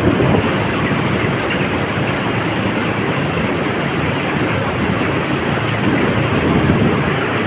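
Steady loud din inside a broiler chicken house: a low hum under a dense, even wash of noise, typical of ventilation fans running with a large flock of broilers.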